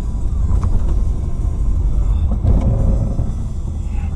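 Car driving: a steady low rumble of engine and road noise, heard from inside the cabin.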